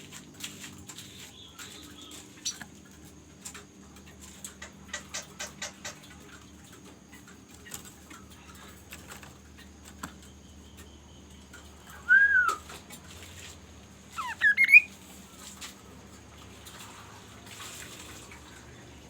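A bird giving two short loud whistled calls a couple of seconds apart, the first bending down in pitch and the second sliding up, among faint scattered clicks and a quick run of clicks.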